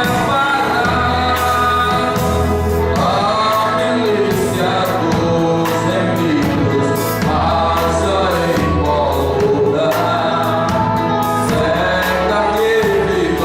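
Choir singing a gospel song with band backing: steady low bass notes and a regular drum beat under the voices.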